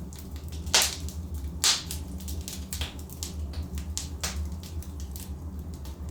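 Wood fire burning in a fireplace: logs crackling, with sharp pops, the two loudest about a second in, over a steady low rumble of the flames.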